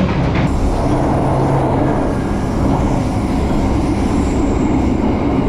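Passenger train running along the track, a steady rumble of wheels and carriage heard from inside the coach.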